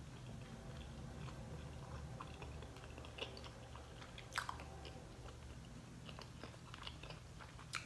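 A person chewing a mouthful of food, faint, with a few small sharp mouth clicks, the clearest about four and a half seconds in and again near the end.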